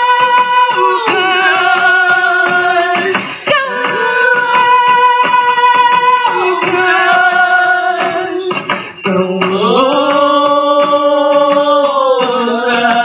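Women singing fado, holding long wordless notes with vibrato and moving between a few pitches, over a steady hand-drum beat.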